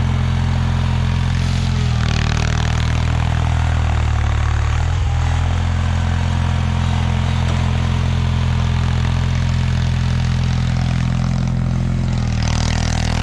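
1979 Bolens HT-23's 23 hp Kohler K582 opposed-twin engine running steadily as the tractor works, its note shifting briefly about two seconds in and again near the end.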